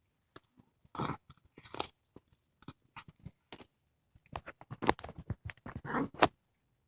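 A cat chewing and crunching on a squirrel it has caught, with irregular wet bites and crackling crunches that come thicker toward the end.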